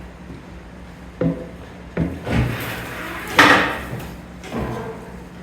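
Skid steer cab being tilted forward: several separate metal clunks and a rattling clatter, the loudest about three and a half seconds in.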